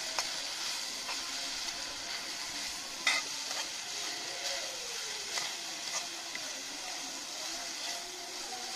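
Vegetable fried rice sizzling in a black iron kadai over a wood fire while a metal ladle stirs and turns it. A few sharp clinks break the steady sizzle, the loudest about three seconds in.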